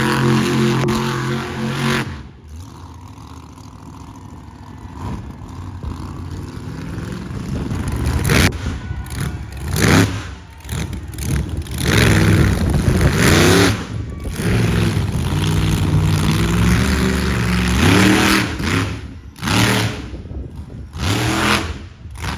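Monster truck engine running loud and steady, then a quieter stretch, then revving hard over and over, its pitch rising and falling, with the sound dropping off sharply several times between revs.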